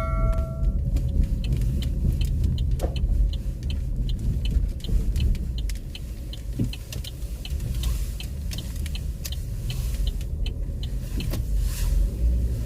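Car engine running, heard as a steady low rumble inside the cabin, with a regular light ticking at about three ticks a second through most of it.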